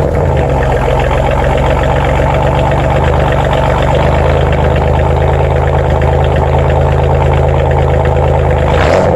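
1998 Oldsmobile 88's 3.8-litre V6 idling loud and steady just after starting, through a straight-piped exhaust with a resonator, a hollowed-out catalytic converter and no muffler.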